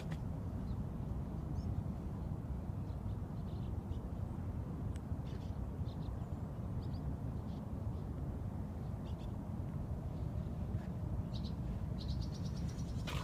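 Scattered short bird chirps and calls, with a quick run of rapid chirps near the end, over a steady low rumble.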